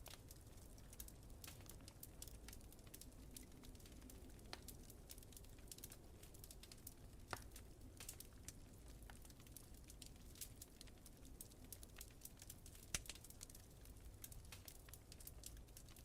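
Faint wood fire crackling in a fireplace: frequent small pops and snaps over a low steady rumble, with two louder snaps about seven and thirteen seconds in.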